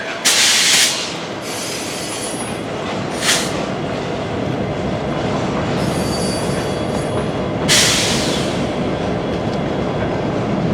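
A train rolling past close by: a steady rumble of wheels on rail, with three brief high-pitched screeches, near the start, about three seconds in and about eight seconds in, and a faint thin wheel squeal.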